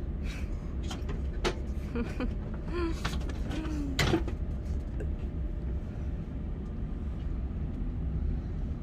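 Steady low hum inside a KTX high-speed train carriage, with a few sharp knocks, the loudest about four seconds in.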